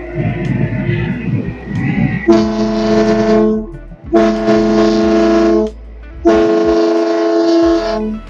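Three long, steady horn blasts, all on the same pitch, each lasting over a second, starting a couple of seconds in after a stretch of mixed commotion.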